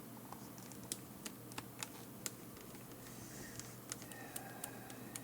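Faint, unevenly spaced small clicks, about ten of them, of a small Phillips screwdriver driving a screw back into a headset microphone's housing.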